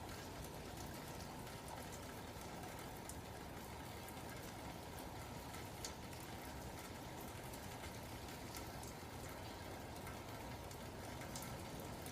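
Steady rain falling, a soft even hiss with faint scattered ticks of drops.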